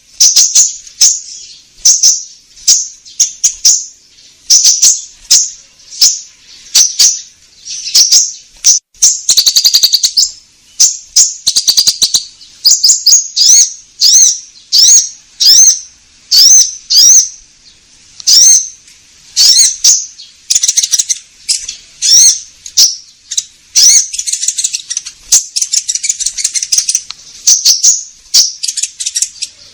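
Konin songbird calling loudly and without pause in high, sharp, repeated chirps, about two a second, played as a lure call for trapping birds. A fast trill comes about ten seconds in, and a denser chattering run comes near the end.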